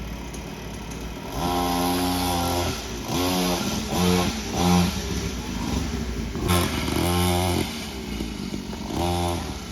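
Small 50cc kids' dirt bike engine being ridden, revving up in about six short bursts of throttle and dropping back between them.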